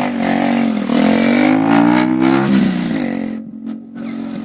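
Mini motorcycle's small engine revving up, its pitch climbing for about a second and a half, then dropping as the throttle is let off and settling back to a steadier, quieter run.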